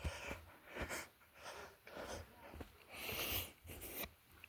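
A hiker's breathing and faint footstep scuffs while walking a trail, in short irregular bursts with a longer hissing breath about three seconds in.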